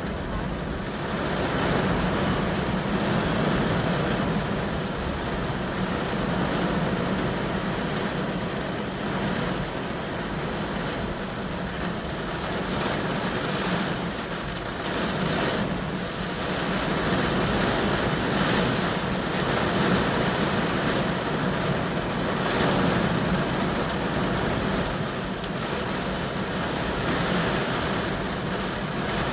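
Rain beating on a moving car, heard from inside the cabin, over a steady low drone of engine and tyres.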